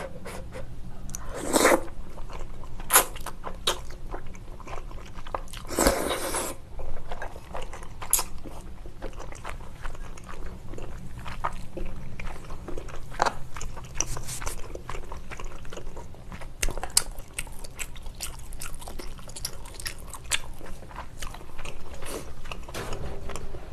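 Close-miked eating of chewy rice cakes and glass noodles in spicy sauce: chewing with many short wet mouth clicks, and two louder sounds of about half a second each, near 1.5 and 6 seconds in.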